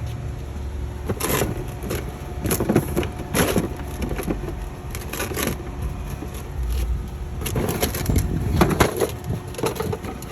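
Irregular knocks, clicks and scraping of plastic and metal parts as the fuel pump's lock ring is worked off and the pump module is freed from the fuel tank.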